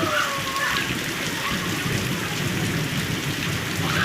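Heavy rain pouring down steadily, drumming on surfaces.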